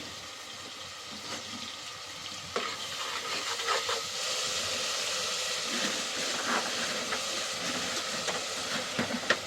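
Food sizzling as it fries in a pan, a steady hiss that grows louder about three seconds in, with a few light clicks and scrapes.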